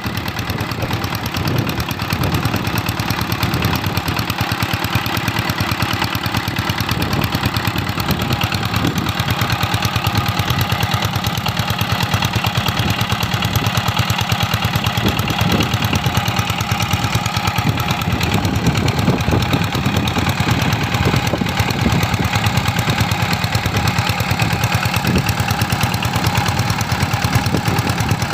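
Stationary diesel engine driving an irrigation water pump, running steadily with a fast, even beat.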